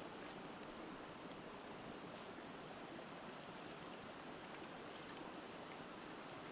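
A river's steady rushing, with a few faint pops from a wood campfire crackling, mostly in the second half.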